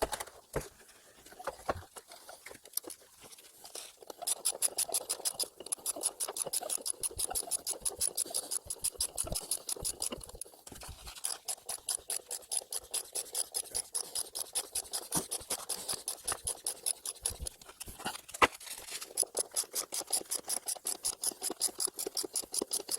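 Ratchet wrench clicking rapidly as nuts are tightened onto the threaded rods holding a firebrick lintel. The runs of clicks stop briefly twice.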